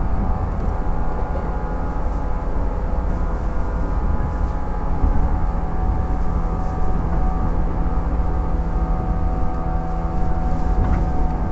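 Running sound of a 115 series electric train heard inside a motor car: the MT54 traction motors and gears keep a steady hum of several held tones over a constant rumble of wheels on rail, with a few faint clicks.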